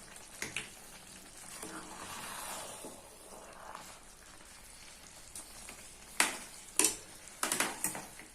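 Pot of chicken biryani cooking with a faint, even hiss, then several sharp metal clanks from the cookware in the last two seconds or so, as the pot is closed for dum cooking.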